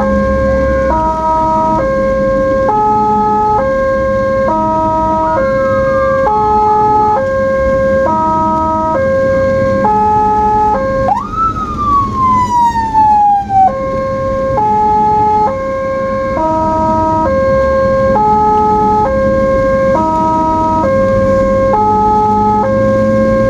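Ambulance two-tone hi-lo siren, alternating between its high and low notes about once a second. About halfway through, a siren tone sweeps sharply up and then slides down for a couple of seconds over the alternating tones.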